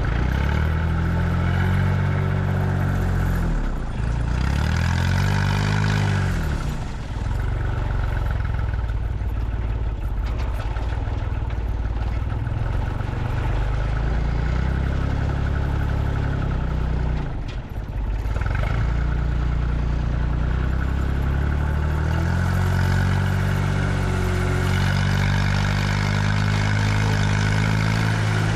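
Delivery truck's engine running while driving, its pitch rising and falling several times as it speeds up and shifts gear, with a brief lull about two thirds of the way through.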